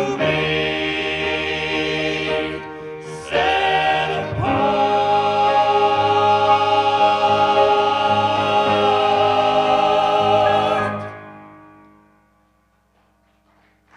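A vocal group singing the close of a song, ending on a long held chord that stops about eleven seconds in and dies away.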